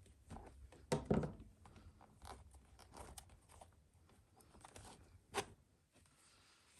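Small handling noises at a workbench: scattered rustles and a few sharp knocks, the loudest a pair about a second in and a single knock near five and a half seconds.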